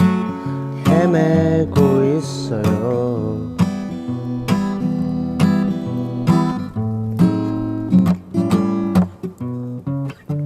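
Acoustic guitar strummed and picked, playing a song live.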